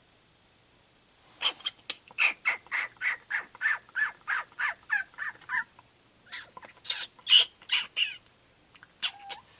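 Baby raccoons calling in a rapid run of short, high chirps, about four a second, starting about a second and a half in. After a brief pause a second group of louder calls follows, and a few more come near the end.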